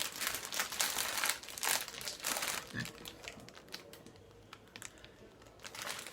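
Plastic packaging crinkling as it is handled and unwrapped, in irregular crackles. It dies down for a couple of seconds after the middle and picks up again near the end.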